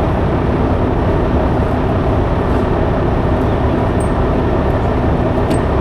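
Steady, unbroken low mechanical drone with a constant hum, such as a large engine or heavy pump running.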